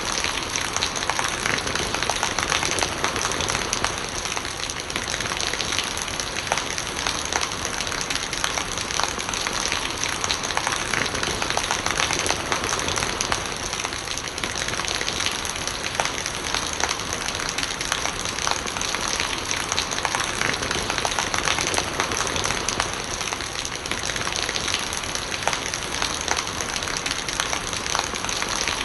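Steady rain falling, with many small drop ticks and gurgling rainwater.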